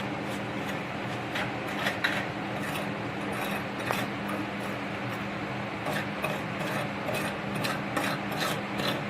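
Electric arc welding: a continuous sizzling crackle of the arc, full of small sharp pops, over a steady hum.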